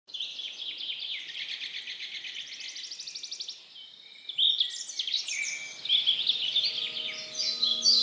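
Several songbirds singing: a long run of rapid repeated notes, then a brief lull, then overlapping varied songs.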